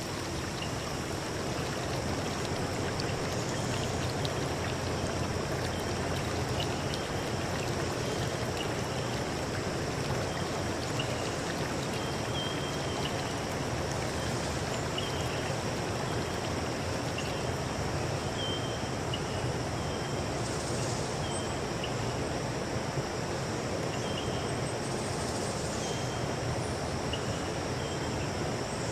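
Flowing stream water running steadily, with short high chirps every second or two over it.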